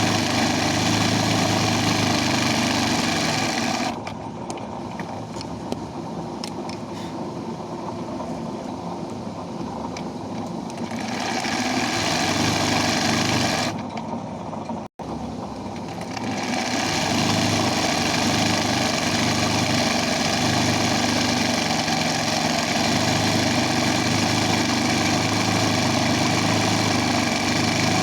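Embroidery machine running, its steady stitching noise dropping to a quieter, duller hum for several seconds from about four seconds in and again briefly past the middle, with a momentary cut-out in between.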